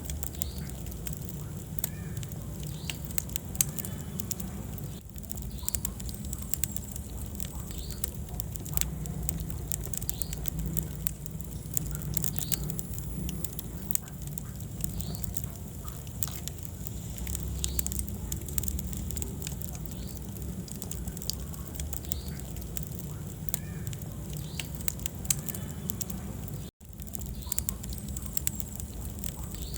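Wood fire burning in a fireplace: a steady low rumble of flames with constant small crackles and snaps from the burning logs. The sound cuts out for an instant about three seconds before the end.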